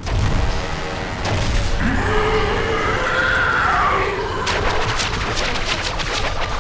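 Animated-series monster sound effects: a deep rumble under a giant creature's wavering cry that rises and falls, then a quick run of sharp clatters near the end, over dramatic score music.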